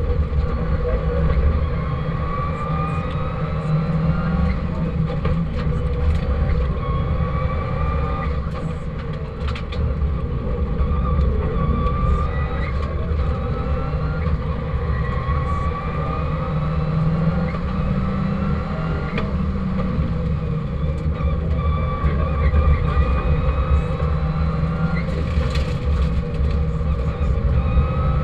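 Subaru WRX STi rally car's turbocharged flat-four engine under hard acceleration, heard from inside the cabin: the pitch climbs again and again as it revs out through the gears, dropping back at each gear change, over steady road and tyre noise.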